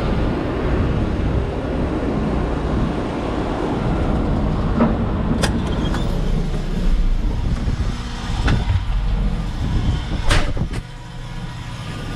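Diesel engine of a Terex FD4000 front-discharge concrete mixer truck running steadily, with a few brief sharp knocks or hisses in the second half.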